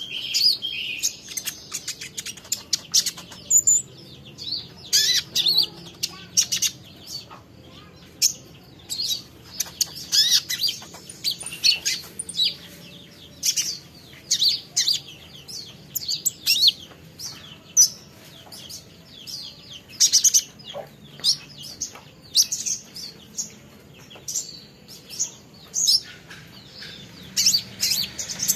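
Small songbird (a konin) chirping and twittering: many short, high, sharp calls in quick runs, with brief pauses between them.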